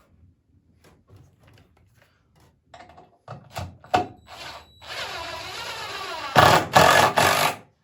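A power drill driving a screw into a poplar swing slat, running for about three seconds and louder near the end before stopping abruptly, after a few knocks of wood being handled.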